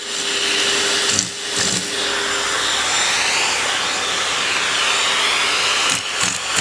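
Vacuum cleaner running steadily, its whine drifting slowly up and down in pitch, with a couple of short knocks just over a second in and a few more near the end.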